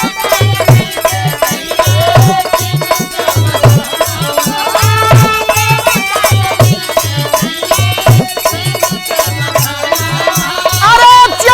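Instrumental interlude of a Bhojpuri birha folk song: a hand drum keeps a steady beat of deep strokes about twice a second under a bending melody line, with jingling percussion ticking throughout.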